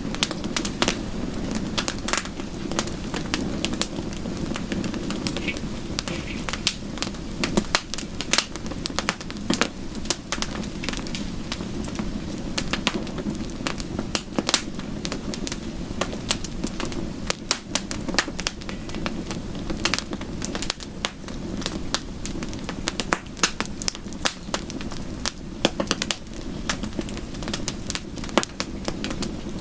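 Wood fire in a fireplace crackling, with many irregular sharp pops and snaps over a steady low rushing layer.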